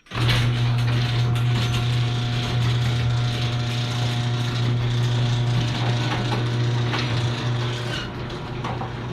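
Electric garage door opener starting abruptly and running, its motor humming steadily over the rattle of the drive and the door travelling on its freshly lubricated hinges and rollers.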